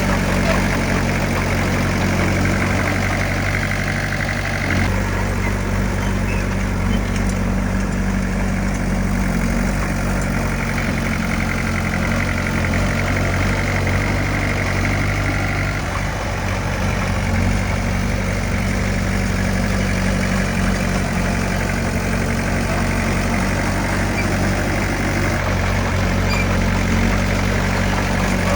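Heavy diesel engine of earthmoving equipment running steadily at a low, even pitch, shifting slightly a few seconds in and again about halfway.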